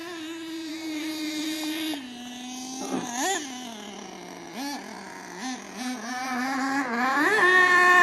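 HPI Savage RC truck's 4.1cc nitro engine running and being revved: several short throttle blips that rise and fall in pitch over an idle. Near the end it climbs and holds a higher, steady note.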